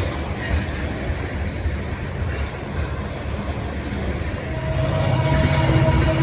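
Loaded coal cars rolling slowly past with a steady rumble and rattle. About four and a half seconds in, a diesel locomotive's engine drone comes in and grows louder as the locomotive draws near.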